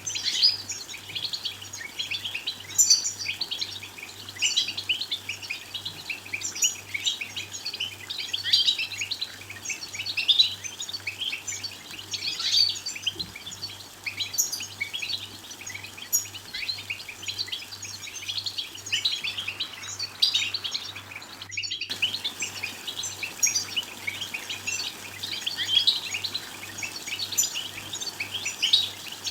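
European goldfinches twittering and singing: a continuous stream of fast, high chattering notes and trills, broken by a momentary dropout about three-quarters of the way through.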